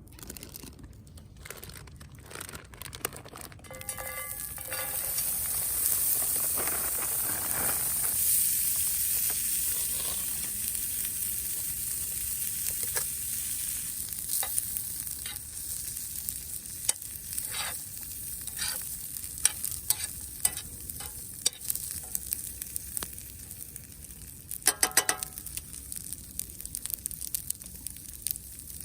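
Food sizzling in a hot frying pan over a campfire, the sizzle starting about four seconds in and loudest around eight seconds, with scattered taps and scrapes of a utensil stirring and a quick run of clicks near the end.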